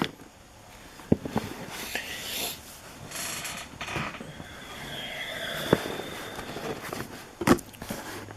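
Handling noise from opening trading card packs: scattered sharp clicks and taps with short bursts of crinkly rustling, as of foil wrappers and cards being handled.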